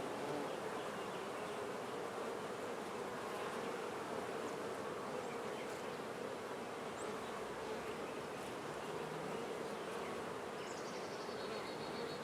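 Honey bees buzzing in a steady, even hum around an open hive while its frames are being inspected.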